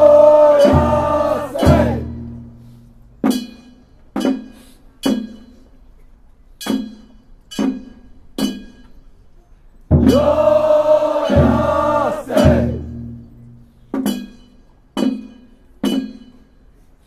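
Kunchi boat song: a group of voices sings long held phrases twice, each time answered by sets of three sharp metallic strikes that ring briefly, about one a second.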